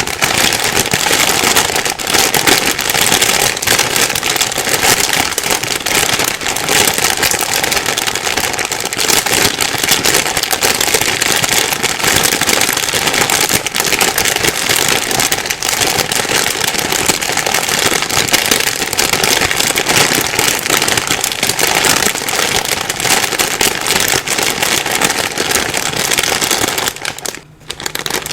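Plastic bag being crumpled and rustled without a break, a dense crinkling crackle, with one brief pause near the end.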